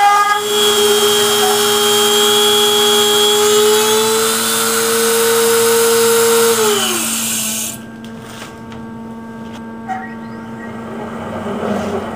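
Router spindle of a homemade desktop CNC machine running with a high-pitched whine, then switched off about six and a half seconds in and winding down, its pitch falling away. A quieter steady hum with a few faint clicks remains.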